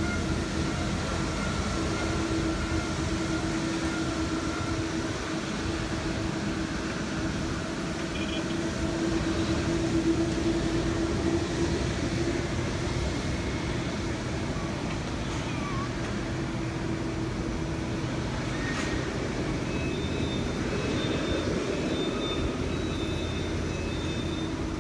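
Airplane noise: a steady continuous rush with a constant low hum, not changing much in level. A few faint short high beeps come near the end.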